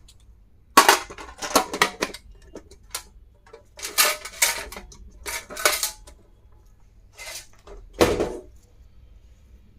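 Small hard stationery items being handled, giving clusters of sharp clicks and clatter, the loudest knock about eight seconds in.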